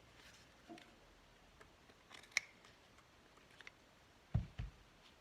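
Scissors trimming paper: a few sharp, scattered snips. Near the end there are two dull knocks.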